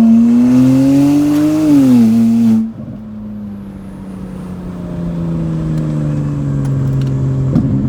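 Straight-piped BMW 335i N54 twin-turbo inline-six, open from the turbos back with only catless downpipes, pulling with its pitch climbing and then dipping. Nearly three seconds in the loud exhaust note drops off sharply, leaving a quieter steady drone that slowly falls in pitch.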